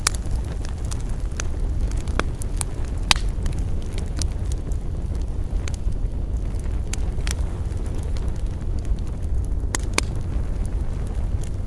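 Wood campfire burning, crackling with scattered sharp pops over a steady low rumble; the loudest pops come about three seconds in and again near ten seconds.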